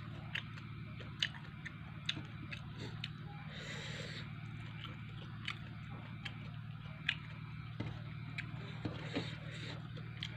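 A person chewing a mouthful of fried fish and rice, with scattered sharp wet mouth clicks and smacks at irregular intervals. A steady low hum runs underneath.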